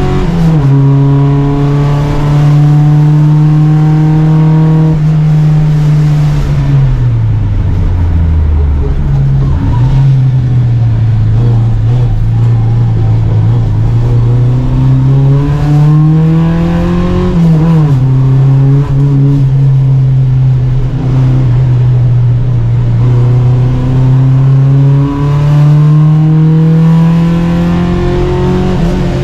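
Volvo Amazon 121's four-cylinder engine under racing load, heard from onboard, loud throughout. The note holds steady for long stretches, falls away with a downshift blip about a third of the way in, climbs and drops sharply at an upshift a little past halfway, and climbs again near the end.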